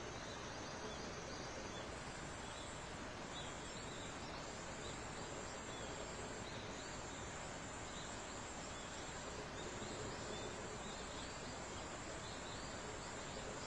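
Summer dawn forest ambience: many short bird calls repeating over a steady high-pitched insect drone and a soft even background hiss.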